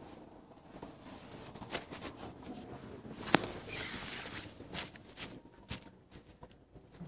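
Rear suspension of a Volkswagen Golf Mk7 knocking while driving over cobblestones: a run of irregular knocks and rattles, the loudest a single sharp knock about three seconds in. The knock is the suspension fault the owner is recording.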